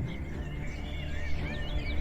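Birds chirping: quick, wavering calls that slide up and down in pitch, starting about half a second in, over a steady low background.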